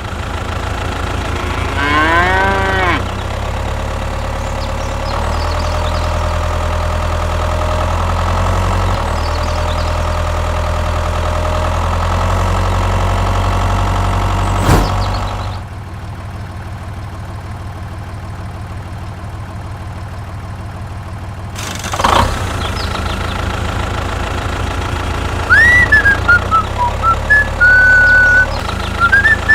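A cow moos once, about two seconds in, over a steady low engine hum that drops away about halfway through. Later comes a thump, then a run of high whistled chirps.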